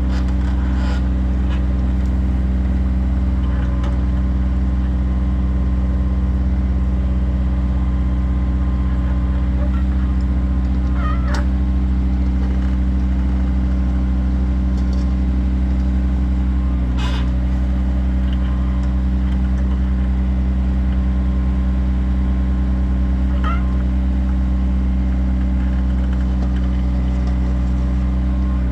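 Kioti tractor's diesel engine running steadily at a constant speed, with a few short high squeaks about a third of the way in, around the middle, and again later.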